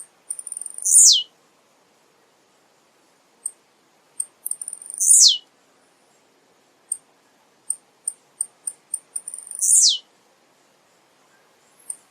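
Male blue-black grassquit (tiziu) singing: three songs about four to five seconds apart, each a quick stutter of high notes ending in a loud buzzy note that sweeps downward. Short, high single chips fall between the songs.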